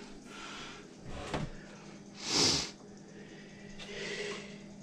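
Faint handling noises of cables being tried and routed inside a desktop computer case, with one short hissy swish about halfway through.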